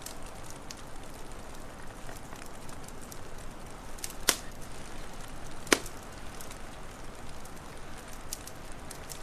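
Wood fire crackling, scattered small snaps over a steady background hiss, with two sharp, louder pops about four and a half and six seconds in.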